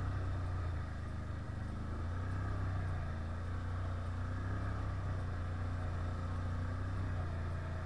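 Can-Am 1000 ATV engine running steadily at fairly constant revs, with a slight dip about a second in.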